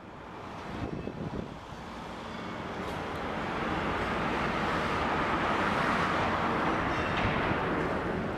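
A train approaching on nearby tracks: a rumble and rush that grows steadily louder over the first few seconds, then holds.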